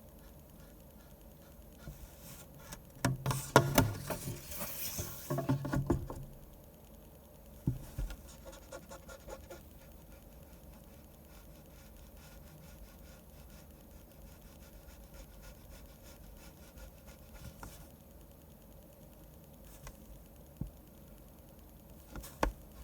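Desk sounds of manga drawing: about three seconds in, a few seconds of rustling and sharp knocks, then faint pen-on-paper scratching with scattered light ticks and a couple of sharp taps near the end.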